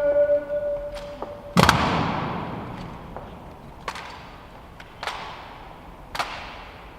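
Musical fountain show: a held sung or played note ends about a second and a half in. A loud sudden burst with a long fading tail cuts in, and three fainter sharp bursts follow, each about a second apart.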